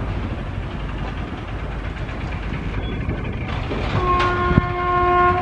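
Train running with a steady low rumble; about four seconds in, a locomotive horn sounds one steady chord of several tones, held for over a second.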